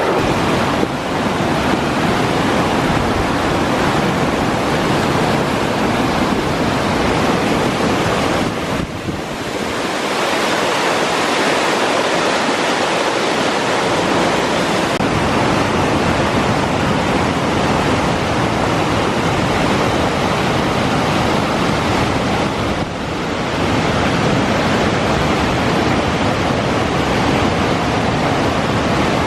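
Whitewater of a steep mountain torrent, a loud steady rushing over boulder-strewn rapids. The level dips briefly twice, about nine seconds in and again near twenty-three seconds.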